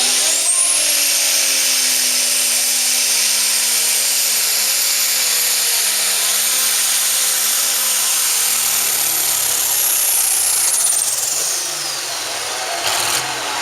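Turbocharged diesel pulling tractor under load, its turbo whistle climbing to a high steady pitch within the first second and holding over the lower engine note, then falling away about eleven seconds in as the engine comes off load.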